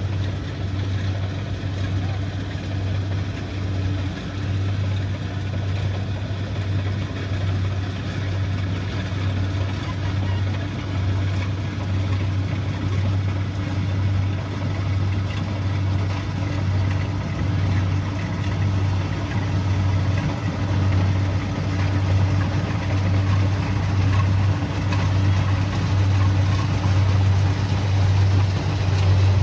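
Kubota DC70 Pro combine harvester running steadily under load, its diesel engine giving a low, evenly pulsing hum over the noise of the machine.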